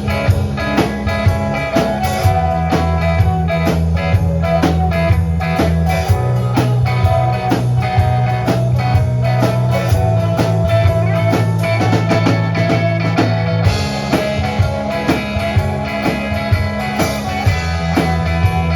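Live rock band playing with a bluesy feel: guitar over bass notes and a drum kit keeping a steady beat.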